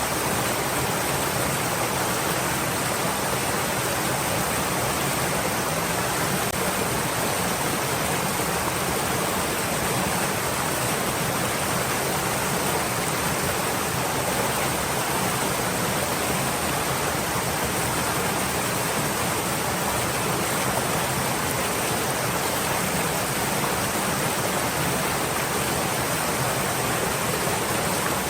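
A stream of water flowing steadily, a continuous even rush.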